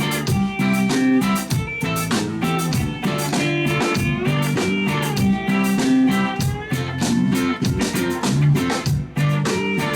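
Indie rock band playing live: guitars over a drum kit keeping a steady beat.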